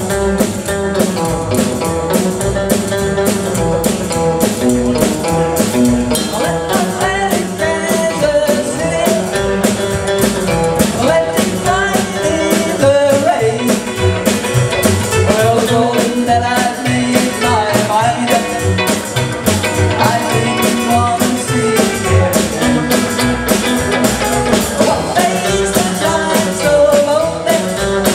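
Live rock and roll band playing: drums keep a steady beat under guitar, with a singer.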